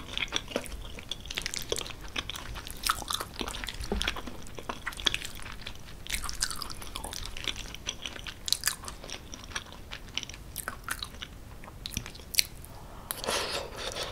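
Close-miked wet chewing of creamy cheese tortellini with peas and vegetables, full of sharp mouth clicks and smacks. A metal fork scrapes and taps the plate as she scoops up more pasta.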